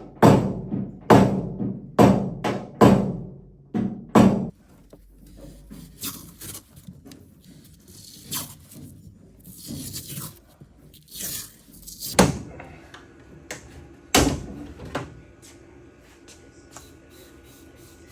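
Hard knocks and thunks on a pickup truck's body and trim panels, about one a second for the first four seconds, then lighter clattering, and two more hard knocks about twelve and fourteen seconds in.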